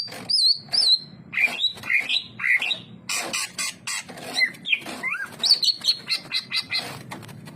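Cucak ijo (green leafbird) singing a fast, varied song of short whistled notes that slide up and down, mixed with quick clicking chatter.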